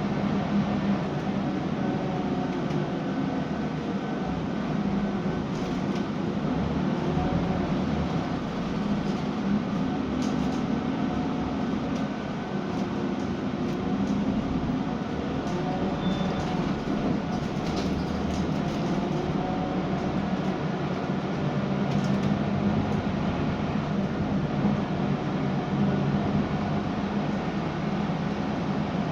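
Scania K320UB city bus's diesel engine running under way, heard on board, with its note rising and falling several times as the bus pulls away, accelerates and eases off. Steady road and drivetrain rumble runs underneath, with a few light rattles.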